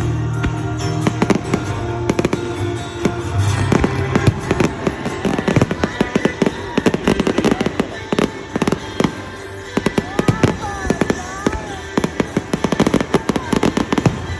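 Fireworks exploding in a dense run of sharp crackles and bangs, several a second, with music playing underneath.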